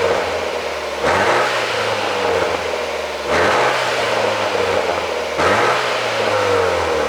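BMW 428i's turbocharged four-cylinder engine, running an ECU pop-sound tune, revved three times in neutral. Each rev rises quickly and falls away slowly.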